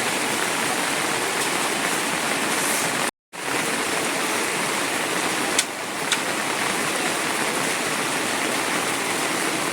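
Steady rush of heavy rain, with two brief sharp ticks a little past halfway. The sound cuts out completely for an instant about three seconds in.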